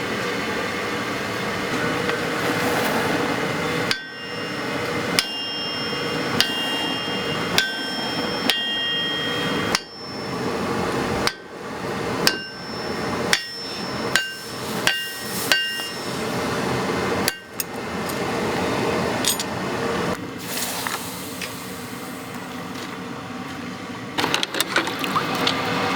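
Hammer blows on hot steel at a blacksmith's anvil: about a dozen strikes, roughly one a second, many with a bright metallic ring. They start a few seconds in and stop past the middle, over a steady rushing noise.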